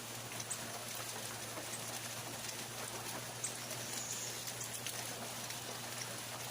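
Steady rain falling, with scattered drops ticking on surfaces, over a constant low hum.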